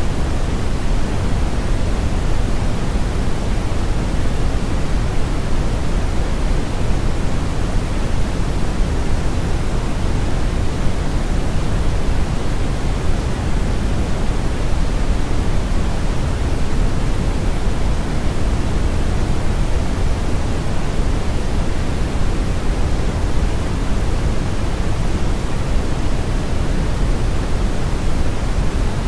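Steady brown noise: an even, unbroken rush with most of its weight in the low end and the highs rolled off, like a river current or strong wind.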